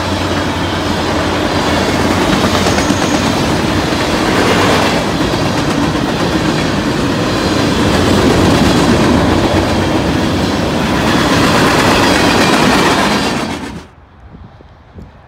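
Freight train of hopper cars and boxcars rolling past on the rails, a steady loud rolling noise that drops away suddenly about 14 seconds in.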